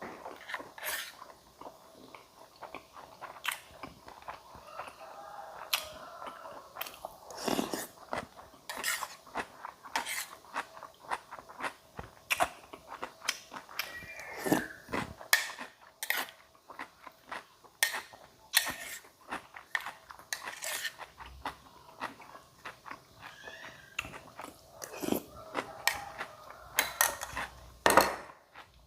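A person chewing and crunching mouthfuls of food close to the microphone, with irregular sharp bites and wet mouth clicks.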